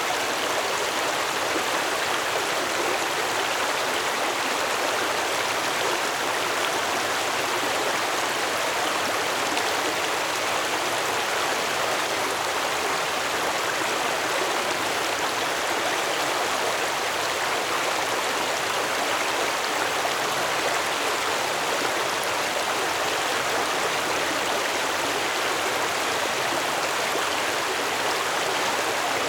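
Stream water flowing steadily, an even rushing with no changes.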